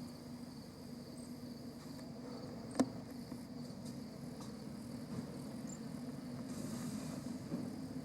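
Insects chirping steadily in outdoor ambience, with a single sharp click about three seconds in.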